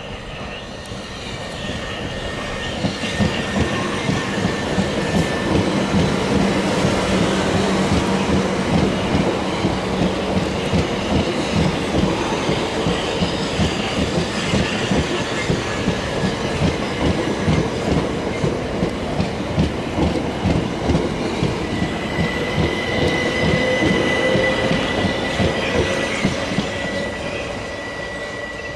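Class 377 Electrostar electric multiple unit passing through the station at speed: a rapid, continuous clatter of wheels over the rails that builds over the first couple of seconds, holds, and eases off near the end. A high steady squeal comes in over the last several seconds.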